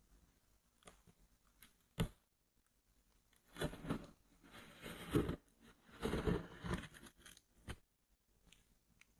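Headphone box packaging being opened and handled close to the microphone: a sharp click about two seconds in, then several seconds of irregular scraping and rustling strokes of varying loudness.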